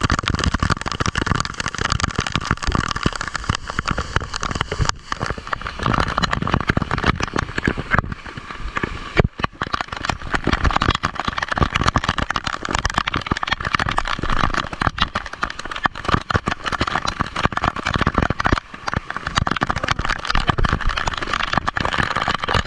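Motorcycle engine running on the move, with wind buffeting the microphone; the loudness dips briefly a few times.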